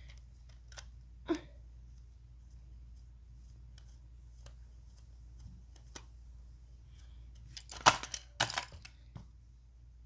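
Batteries being fitted into a plastic motorized toy train engine: scattered small clicks and handling noises, one sharper click early on, then a burst of louder plastic clicks and clatter about eight seconds in.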